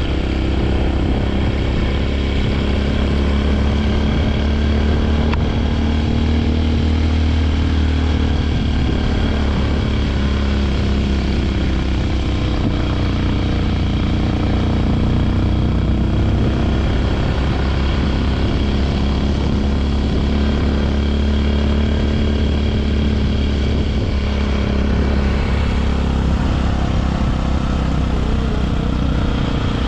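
Honda CRF150L dual-sport motorcycle's single-cylinder four-stroke engine running steadily while riding, its pitch drifting gently up and down with small throttle changes.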